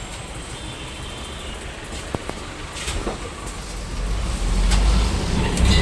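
Electric tram approaching on its rails: a low rumble that grows steadily louder over the last two seconds, over the hum of street traffic, with a few sharp clicks about two to three seconds in.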